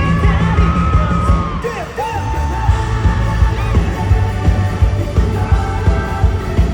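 Live rock band playing at a concert, recorded from the audience: drums keep a steady beat over sustained bass notes, with singing and a high line bending in pitch above.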